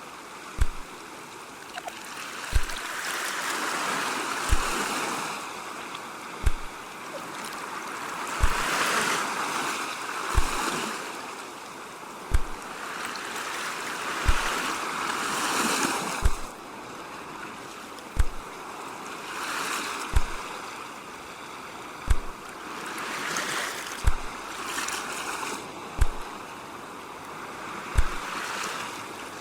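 Sea waves washing in, their rush swelling and falling back every few seconds. A short, deep thump repeats about every two seconds and stands out above the surf.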